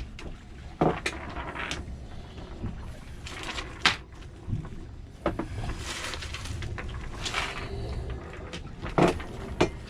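Irregular knocks, clicks and rustling of objects being handled, picked up and put down, with sharper knocks about one, four and nine seconds in.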